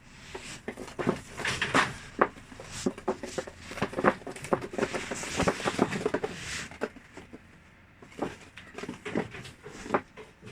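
Irregular clicks, knocks and rustling, busiest in the first two thirds and sparser near the end.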